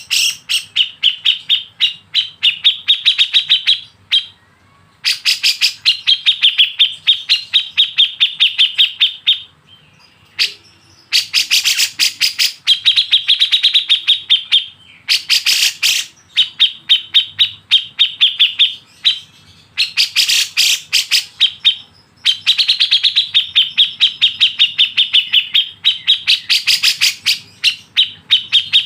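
A bird calling in fast trains of sharp, evenly repeated notes, several a second, each phrase lasting a few seconds with short pauses between.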